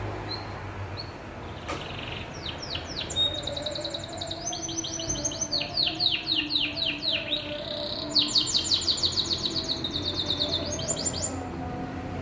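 A songbird singing: fast trills of high down-sweeping notes, in several bursts with short pauses, the loudest a little past the middle.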